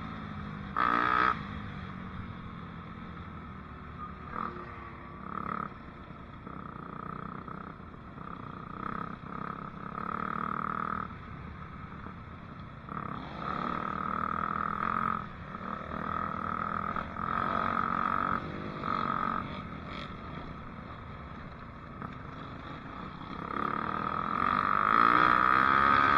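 Dirt bike engine running while riding, its note swelling and dropping every second or two as the throttle is worked, and getting louder near the end.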